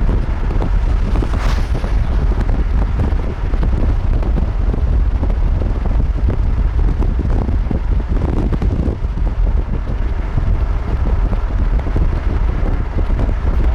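Strong wind buffeting the microphone: a loud, choppy low rumble that goes on throughout, with a brief hissing gust about a second and a half in.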